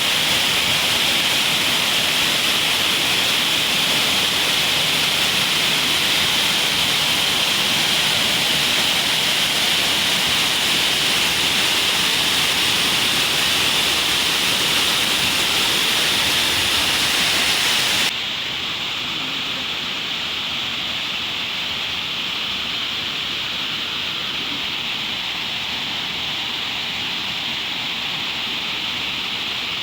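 Steady rush of a waterfall. About 18 seconds in it cuts abruptly to a quieter, duller rush.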